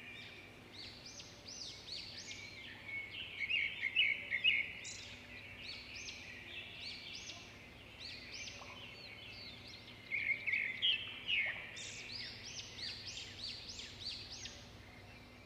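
Birds singing and chirping: many overlapping short, sweeping calls repeated throughout, with busier, louder bursts of chatter about four seconds in and again around ten to eleven seconds in.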